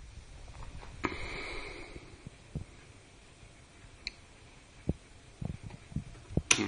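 Quiet handling noises from an RC transmitter and helicopter electronics: scattered light clicks and knocks, with a short high beep about four seconds in and a sharper click near the end.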